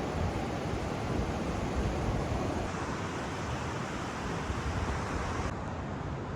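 Steady rush of surf and wind, with wind buffeting the microphone as a low rumble. The higher hiss drops off abruptly near the end.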